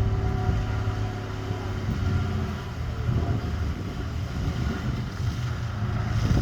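An engine running with a steady low hum, with a few higher tones held over it for the first couple of seconds.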